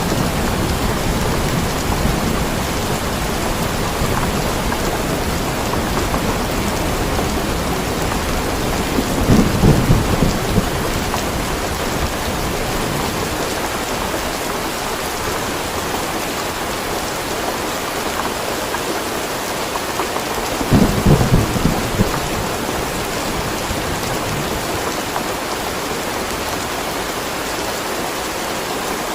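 Steady heavy rain with rolls of thunder: a low rumble fading out at the start, then two short rumbles about ten seconds in and again about twenty-one seconds in.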